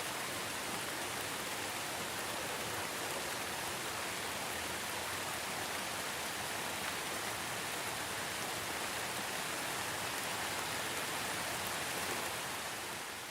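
Steady rain falling, an even hiss of many drops with no single sound standing out; it eases slightly near the end.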